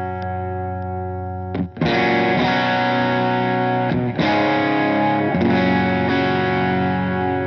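Electric guitar played through a Donner Dumbal Drive light-gain overdrive pedal: distorted chords ringing and sustaining. A chord is struck anew about a second and a half in, again about four seconds in, and once more a little after five seconds.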